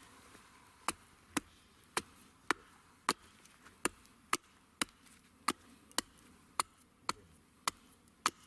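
Wood being chopped by hand: about fourteen sharp, evenly paced strikes, roughly two a second.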